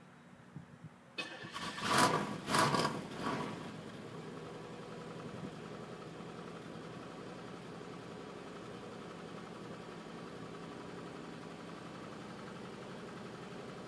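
1990 Cadillac engine cold-starting, heard at the tailpipe: a brief crank about a second in, catching with a few loud bursts around two seconds, then settling into a steady idle from about four seconds. The owner blames the car's hard starting on a badly faulty idle air control.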